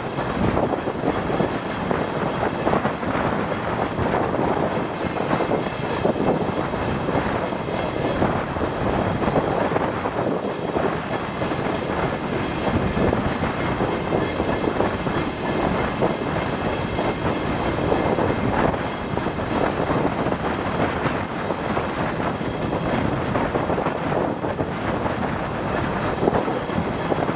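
DR1A diesel multiple unit under way: a steady, unbroken run of engine and wheel-on-rail noise.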